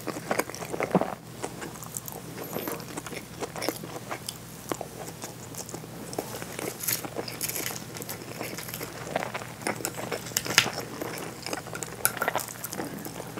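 Close-up chewing of seared bonito (katsuo no tataki) with rice and green onions, full of small wet mouth clicks and smacks at an irregular pace.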